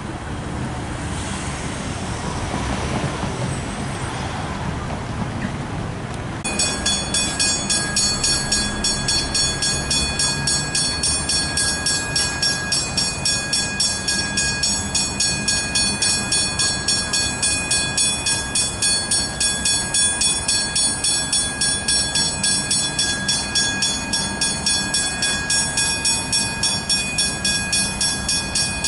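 Railway level-crossing bells start ringing about six seconds in, an even, rapid ding-ding that repeats steadily. Train rumble runs underneath.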